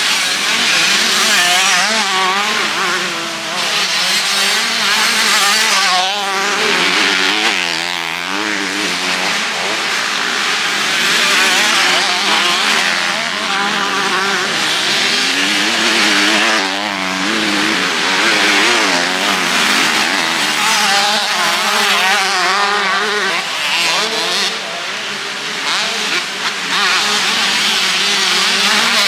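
Several 125 and 250 cc motocross bikes racing, their engines revving up and down over and over as they work the throttle, the sound of one bike overlapping the next as they swell and fade.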